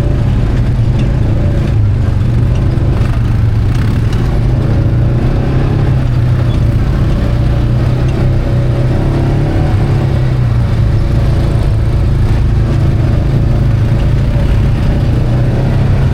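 UTV engine running steadily while the vehicle is driven, a constant heavy low drone with no breaks.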